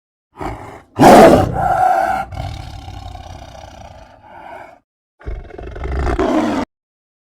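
Lion roaring: a short call, then a loud long roar about a second in that slowly fades, and another roar near the end.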